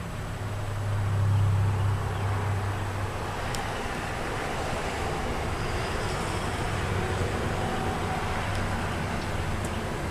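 Chevy Avalanche's 5.3-litre V8 running, a steady low hum under road and wind noise. The hum swells louder about a second in, then settles.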